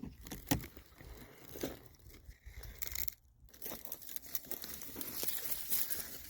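Irregular crunching and crackling of dry ground litter and debris underfoot.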